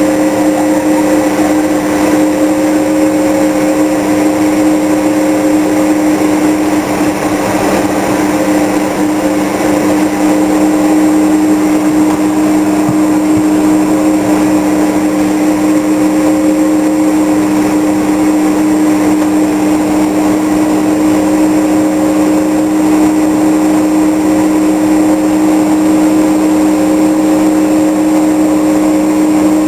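Steady flight-deck noise of a Vickers VC10 K4: the hum of its four Rolls-Royce Conway turbofan engines and the rush of air, with a few constant steady tones running through it.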